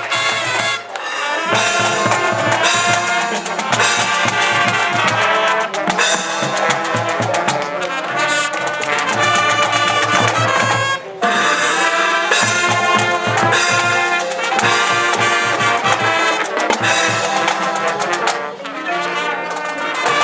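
Marching band playing: massed brass, with trumpets and trombones, over drums. The music drops out for a moment about halfway through.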